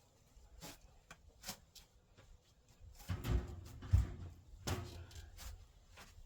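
Shovel working hard-packed dirt and compost: scattered scrapes and knocks, with a run of heavier thuds about three to five seconds in.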